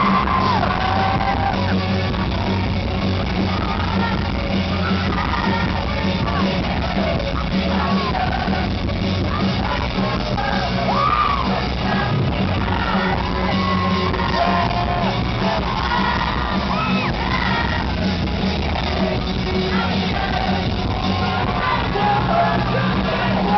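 Concert crowd in an arena yelling and whooping over a steady low drone of music from the stage.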